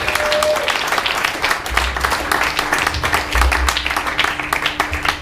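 Audience applauding with fast, dense clapping, which cuts off suddenly near the end.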